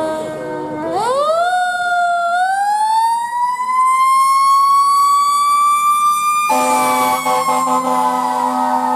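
Fire engine siren winding up in a slow rising wail after a short steady horn-like tone at the start. About six and a half seconds in, the engine's air horn sounds with a low steady blare while the siren's pitch slowly sags.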